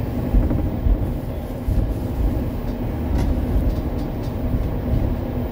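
Wolmi Sea Train running along its elevated track, heard inside the passenger car: a steady low rumble with a faint hum and a few light clicks.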